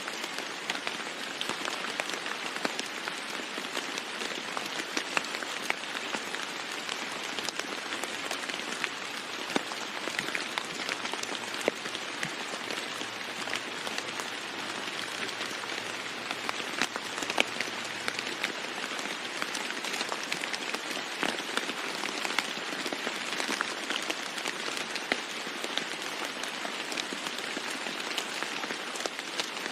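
Steady rain falling on a roof, an even hiss with many separate drops ticking sharply through it.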